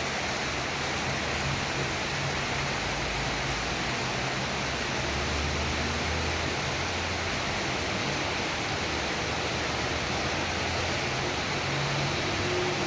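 Steady rain, an even hiss of falling water, with a faint low hum underneath.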